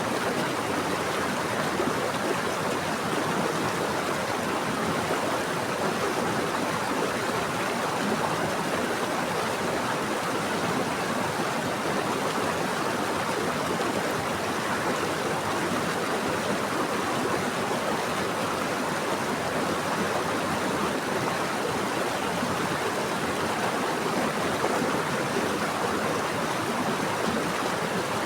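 Running water flowing steadily in a stream, an even rushing splash with no breaks or changes.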